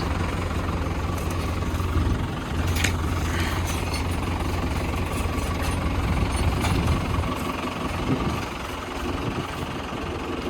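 Tractor engine running steadily with a low drone, easing slightly near the end.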